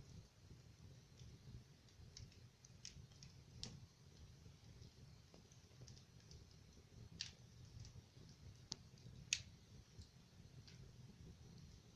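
Wood fire crackling in a fireplace: faint, irregular snaps and pops over a soft low rumble, with the sharpest pop about nine seconds in.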